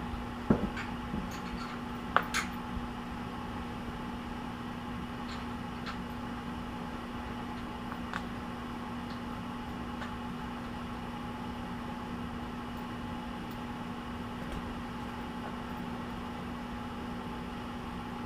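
Steady mechanical hum of a running fan, with a few light knocks and clinks in the first couple of seconds and another faint one about eight seconds in.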